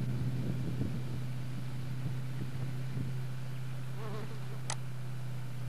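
Car engine droning at steady revs as the car drives off across the paddock, a single even hum that holds one pitch. A short chirping sound and a click come near the end.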